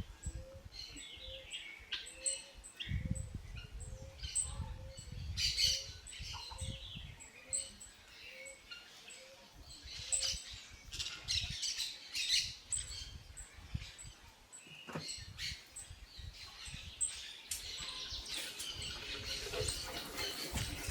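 Birds chirping and calling, with a faint pip repeating evenly about twice a second for most of the stretch.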